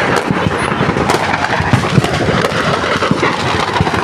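Firecrackers going off in quick succession as a fire sets off a shop's stock: a dense, continuous crackle of many small bangs, with one sharper bang about two seconds in.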